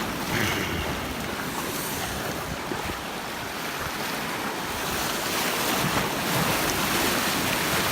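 Ocean surf breaking and washing in, a steady rushing noise that swells a little in the second half, with wind buffeting the microphone.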